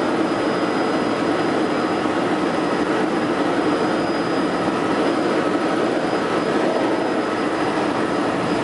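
Helicopter turbine and rotor noise heard from inside the cabin in flight: a loud, steady drone with a faint high whine.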